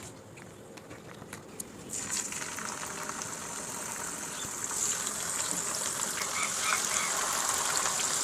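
Hot oil sizzling as chicken fries, a steady hiss that starts about two seconds in and slowly grows louder, after a few light clicks.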